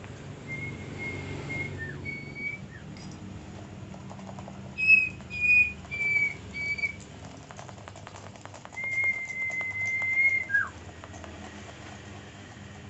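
A pet cipo (serpu) songbird giving clear whistled notes: a long steady whistle, a short one, then four quick notes, then another long whistle that ends in a quick downward slur. Faint small clicks are heard between the notes.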